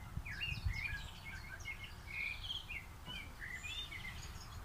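Songbirds chirping and twittering in many short, quick notes, over a steady low background rumble.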